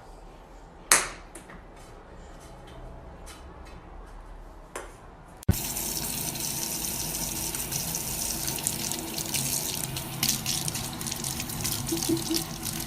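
Running water, like a tap, starting abruptly and louder from about five seconds in. It follows a quieter stretch with one sharp knock about a second in.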